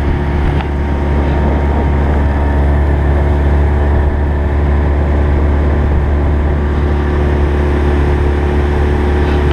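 Small outboard motor on a boat running steadily at cruising speed, a loud, even drone.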